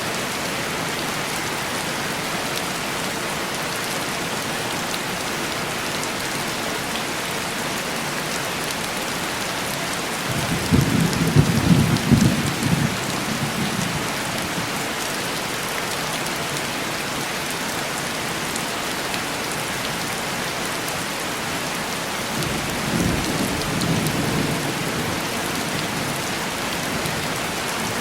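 Heavy rain falling steadily on a window, with two rolls of thunder: a louder rumble about ten seconds in lasting a few seconds, and a softer one a little over twenty seconds in.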